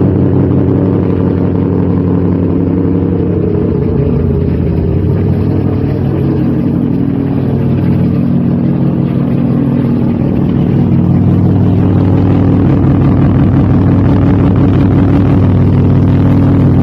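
Mazda RX-7 FD's rotary engine running through its exhaust at a steady speed. It grows a little louder about ten seconds in.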